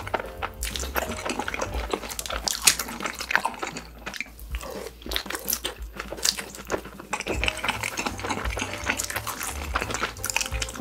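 Close-miked chewing of a mouthful of sauced fried chicken covered in cheese sauce: irregular clicks and smacks of the mouth working the food, with occasional crunches.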